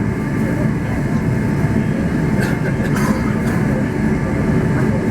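Airliner cabin noise as the plane rolls on the ground after landing: a steady, heavy rumble with a faint hum, and a few light clicks and rattles about halfway through.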